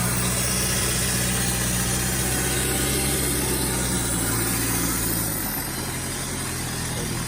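Engine idling steadily. About five seconds in its sound thins and drops lower, and it stops near the end.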